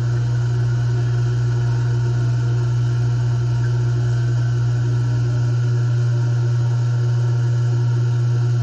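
Industrial grinding machine running steadily: a constant low motor hum that does not change.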